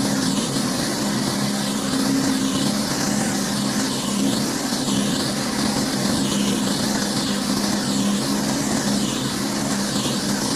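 Pressure washer running steadily, its engine holding an even tone under the hiss of the high-pressure water spray. The hiss swells and fades about every second and a half as the spray sweeps back and forth over the surface.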